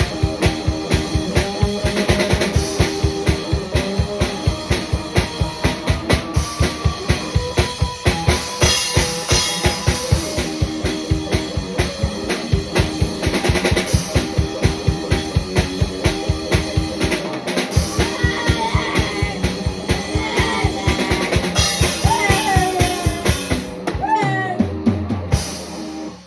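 A guitar and drum kit playing a rock song, with a fast, steady drum beat of about four hits a second. In the second half the guitar plays a solo with notes bending in pitch, and the music stops just before the end.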